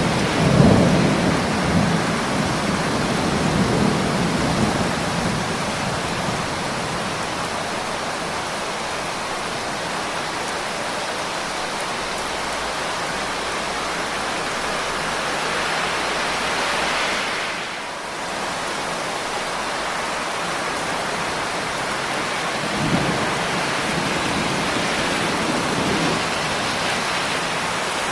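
Steady heavy rain with rolling thunder, a rumble right at the start and a fainter one about three-quarters of the way through.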